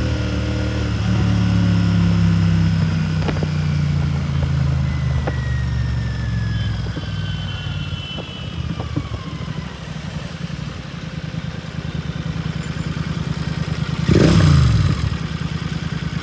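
Royal Enfield Continental GT 650's parallel-twin engine through a Red Rooster aftermarket exhaust, pulling strongly for the first several seconds, then dropping to a lower, steady beat. About 14 seconds in a short, loud throttle blip rises and its pitch falls away quickly.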